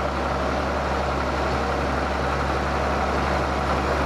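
Ford TW tractor's diesel engine running at a steady pace while it pulls a plough set to scratch a shallow marking line.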